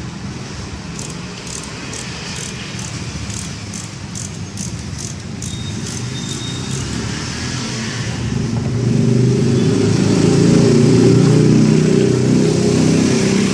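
An engine running, growing louder about two-thirds of the way through. In the first half there is a run of light, quick clicks, about two or three a second.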